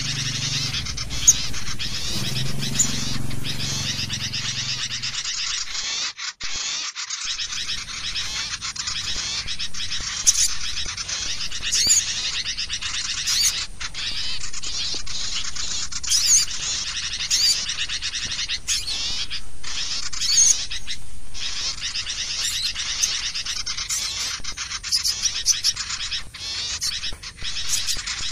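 Bird-lure (pikat) recording of many small birds chirping and chattering densely and continuously, with sharp high chips over a steady twitter.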